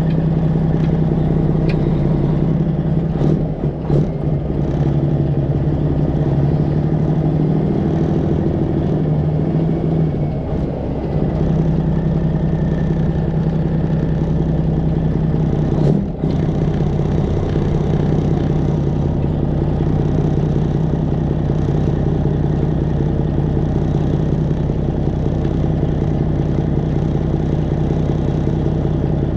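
Straight-piped Detroit Diesel 12.7 engine of a Freightliner Classic XL semi truck running steadily, its pitch shifting slightly about 3 to 4 seconds in and again around 10 seconds, with a brief sharp knock about 16 seconds in.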